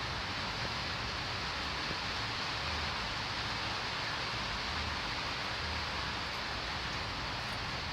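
Steady, even hiss over a low rumble, with no distinct knocks or clicks.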